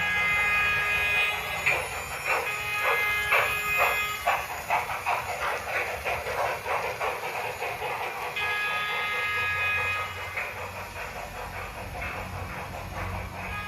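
Model Big Boy steam locomotive's sound effects: a steam whistle sounding a chord, then rhythmic exhaust chuffs that quicken after a few seconds. The whistle blows again about eight seconds in and near the end.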